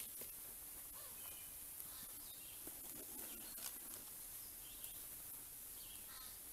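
Faint birds calling: short, scattered chirps over a steady hiss.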